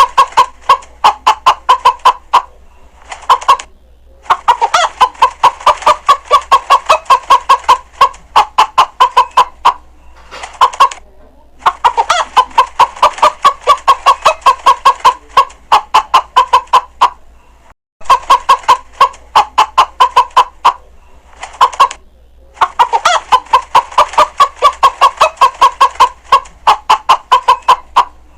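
A chicken clucking: rapid, evenly spaced clucks, several a second, in runs of a few seconds with short breaks between them.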